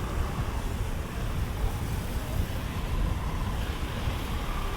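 Wind buffeting the microphone over steady city street noise: a low, flickering rumble under an even hiss of traffic.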